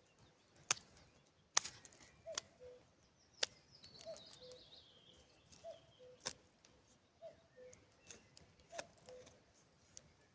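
Wooden friction-fire sticks being worked by hand: irregular sharp wooden clicks and knocks, about half a dozen. Underneath, a short two-note tone, higher then lower, repeats about once a second.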